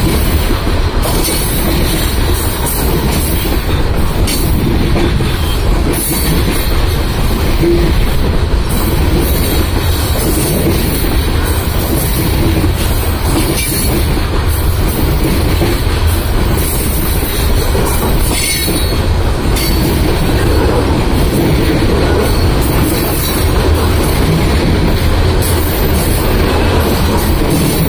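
Coal train's freight cars rolling past close to the track: a steady rumble and clatter of steel wheels on the rails.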